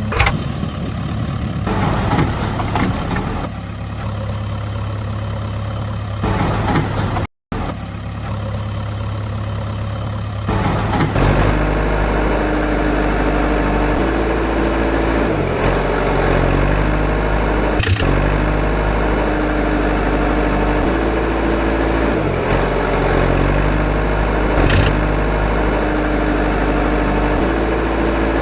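Recorded engine sound clips of heavy machinery idling steadily, spliced together. The sound cuts out for an instant about seven seconds in, and about eleven seconds in it changes to a different, deeper engine hum that runs on steadily.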